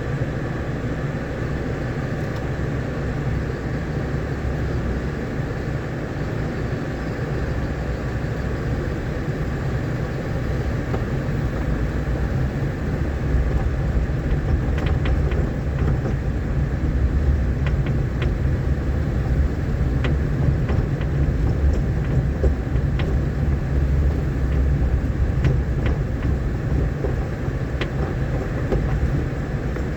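A vehicle driving over a rough, rain-damaged dirt road: a steady low rumble of engine and road noise that grows a little louder about halfway through, with scattered sharp clicks and knocks in the second half.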